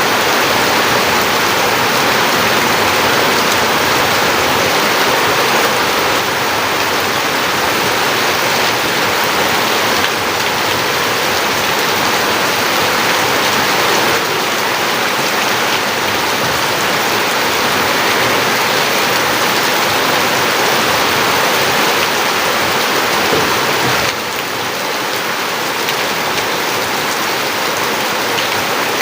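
Heavy rain falling in a dense, steady hiss of drops on surfaces. It drops slightly in level a few seconds before the end.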